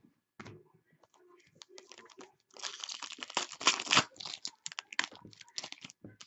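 Trading card pack wrapper being torn open and crinkled by hand, with small rustling clicks at first and then a dense crackling that runs for about three and a half seconds before stopping just before the end.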